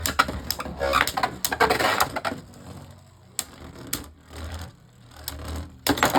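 Beyblade Burst spinning tops clashing in a plastic stadium: a rapid run of hard plastic clacks for the first couple of seconds, then a quieter stretch with an occasional knock, and a sharp clatter near the end as one top bursts apart.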